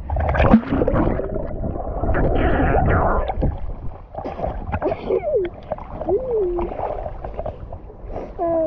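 River water splashing and sloshing as a person wades into it, with short wordless cries and gasps at the cold water, over a low rumble on the microphone.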